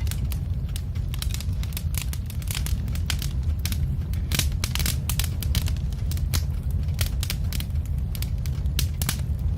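Wood fire crackling and popping in a fireplace: irregular sharp snaps, several a second, over a steady low rumble of the flames.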